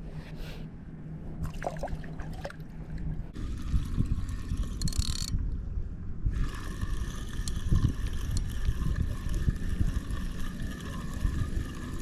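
Fishing reel being cranked: a steady mechanical whir of the reel's gears sets in about six seconds in and keeps going, over low rumbling noise. It follows a few scattered clicks.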